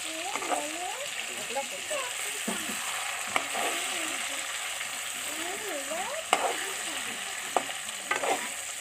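Masala-coated fish frying in hot oil in a pan, sizzling steadily, with a few sharp clinks of a utensil against the pan as it is stirred and turned.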